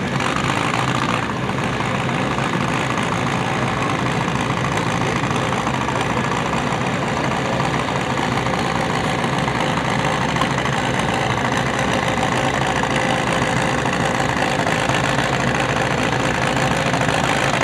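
Antique farm tractor engine running steadily, with a heavy, even engine note and no clear revving up or down.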